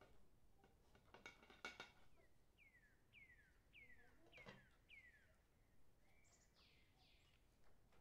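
Near silence: a few faint clicks, then a faint bird calling, a run of five quick chirps each falling in pitch, followed by one longer falling call.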